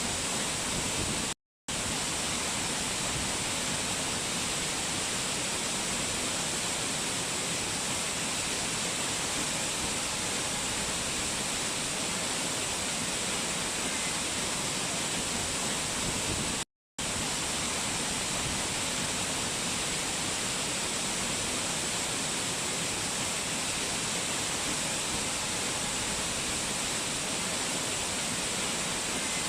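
Rushing water of a waterfall, a steady, even rush. It cuts out completely for a split second twice, about a second and a half in and again about 17 seconds in.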